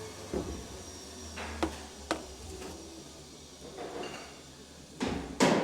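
Scattered knocks and clatters of tools or metal parts being handled on a workbench, with a few sharp taps early on and louder clattering near the end, over a faint steady hum.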